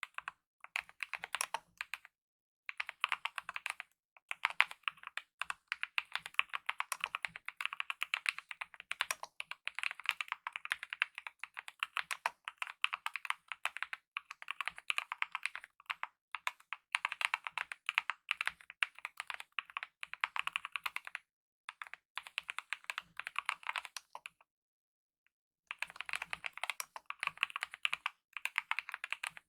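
Continuous fast typing on a mechanical keyboard with lubed optical linear red switches and DSA-profile keycaps, a dense run of key clicks with brief pauses, the longest a stop of about a second and a half near the end.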